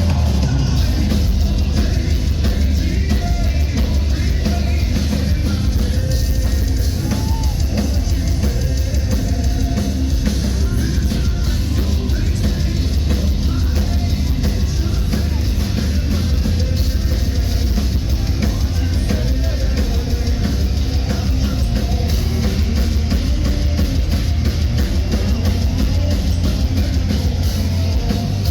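Live heavy metal band playing an instrumental passage, with fast, dense drum-kit and bass-drum hits under distorted guitars and bass. The recording is loud and heavily compressed, as from a phone in the crowd.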